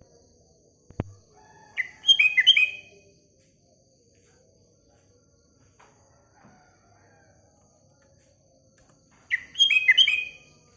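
Sooty-headed bulbul (kutilang) giving two short bubbly song phrases of quick, falling whistled notes, one about two seconds in and another near the end. A single sharp click comes about a second in, and a faint steady high whine lies underneath.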